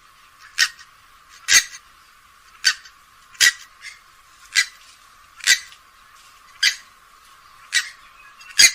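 Grey-headed swamphen calling: short, sharp calls repeated about once a second, nine in all.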